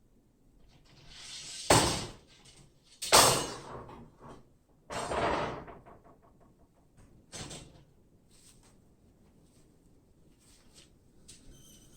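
Two loud slams about a second and a half apart, each after a sliding, scraping noise, then a longer scrape and a few light knocks.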